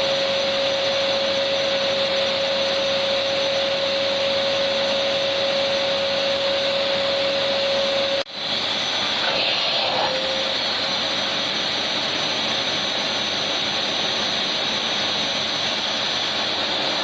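Electric vacuum cleaner running steadily as white noise, a hiss with a steady hum-like tone. About eight seconds in, the sound cuts out for an instant and comes straight back, and the tone then drops away.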